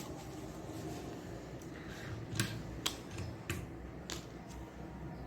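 Plastic toy building bricks being pulled apart by hand: a series of sharp snapping clicks, the loudest four coming about half a second apart past the middle, with fainter clicks before them.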